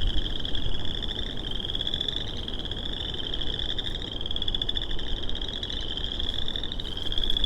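A chorus of frogs calling from a marsh: many high, pulsed trills overlapping into a steady wall of sound, each trill rising slightly in pitch.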